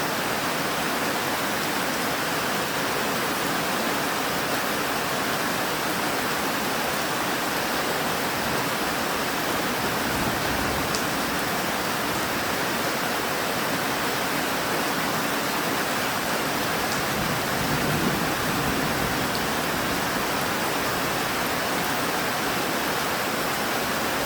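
Steady heavy rainfall, an even hiss with no let-up. A brief low rumble swells up about 17 seconds in.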